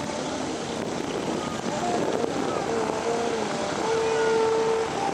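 Steady running noise of propeller aircraft engines, mixed with faint voices from the crowd.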